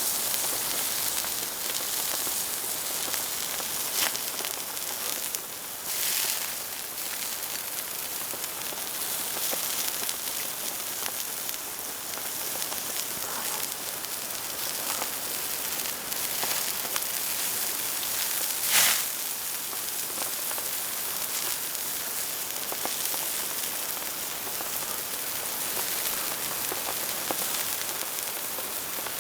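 Steady rain falling, an even hiss, with a few louder single drops or taps; the loudest comes a little past halfway.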